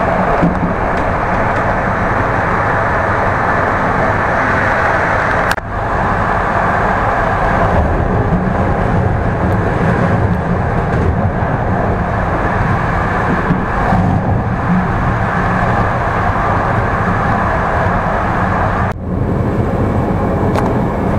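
Steady rumble and rolling noise of a passenger train running at speed, heard from inside the carriage. The noise dips briefly twice, about a third of the way in and near the end.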